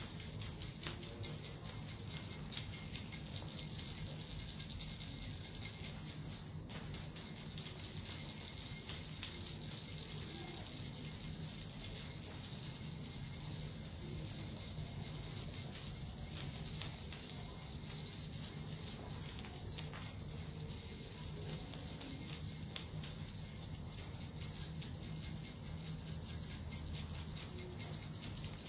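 Suzu bells and a metal rattle shaken without pause in a steady, dense jingling.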